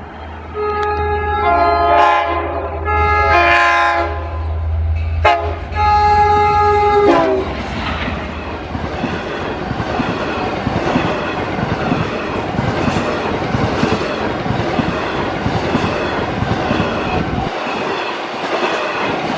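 Long Island Rail Road Cannonball train passing a grade crossing: its diesel locomotive sounds a series of horn blasts, the last one dropping in pitch as it goes by. The cars then roll past with steady rail clatter while the engine's low drone fades out near the end.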